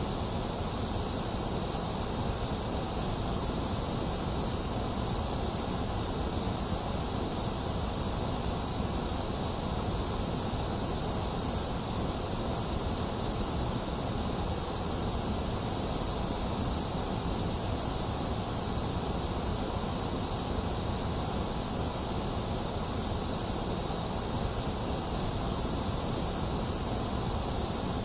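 Box fan running mixed with steady rain, an even hiss over a low whir that does not change.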